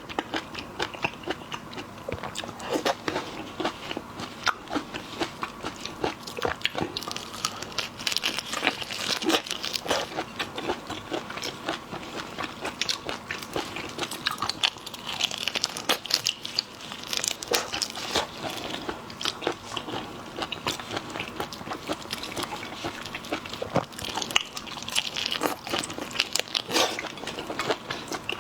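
Close-up crunching and chewing of shrimp, with the shells cracking in many quick, irregular clicks.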